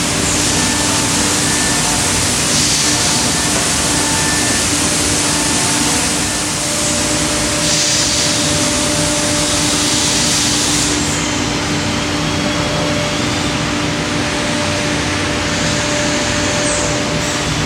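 C.R. Onsrud 5-axis CNC router routing a wooden chair back: a steady hum under a loud, continuous cutting hiss. The high hiss changes in strength every few seconds as the cut moves.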